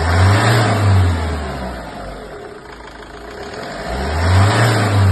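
Hyundai Terracan's 2.9 L four-cylinder turbo-diesel revved up twice and allowed to fall back to idle each time. It has been freshly rebuilt with new cylinder liners and runs free of the piston-skirt slap it had when the liners were loose.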